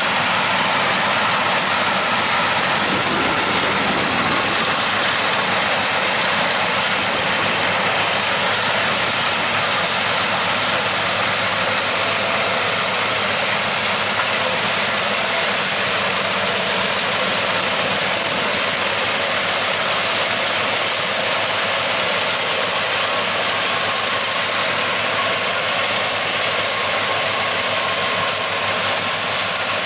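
Combine harvesters and tractors running steadily as the combines harvest corn: a constant dense machine noise with a faint steady hum.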